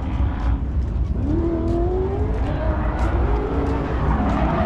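Car engines revving, their pitch rising in several sweeps over a steady low rumble.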